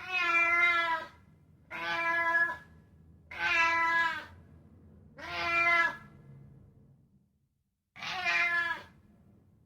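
A domestic cat meowing five times, each call about a second long, with short pauses between and a longer gap before the last.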